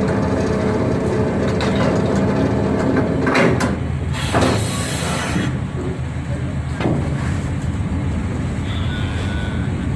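Large ferry's diesel engines running with a steady low drone while it berths. A rushing hiss lasts about a second midway, with a few short knocks around it.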